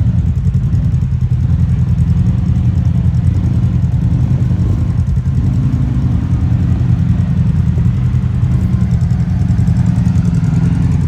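UTV engine running steadily at close range, its pitch rising and falling slightly with small throttle changes.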